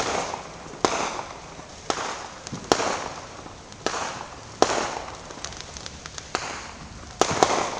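Fireworks bursting in a steady string, a sharp bang about every second, each trailing off in an echoing rumble. Two bangs come close together near the end.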